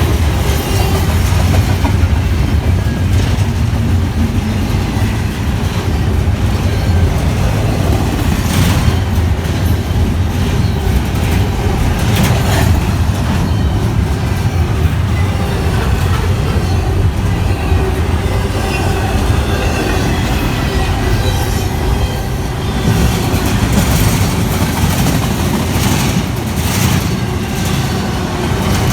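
Freight train cars passing at speed: a steady rumble of steel wheels on the rails, with sharp clicks and clatter as the wheels cross rail joints, most of all near the middle and toward the end.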